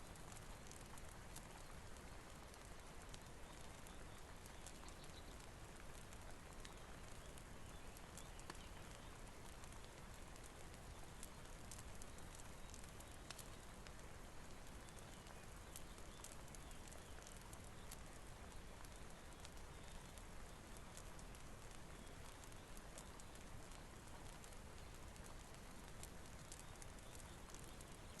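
Quiet, steady rain hiss with a wood fire crackling, faint irregular pops scattered throughout.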